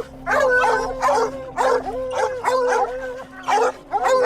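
Hunting dogs barking and baying in quick, repeated calls, several a second, some drawn out and overlapping: hounds holding a cornered mountain lion at bay.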